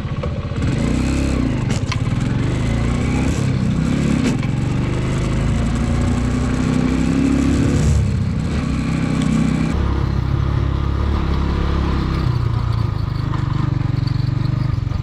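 Motorcycle engine running as the bike rides along, its pitch rising and falling with the throttle. Wind rushes over the microphone until about ten seconds in.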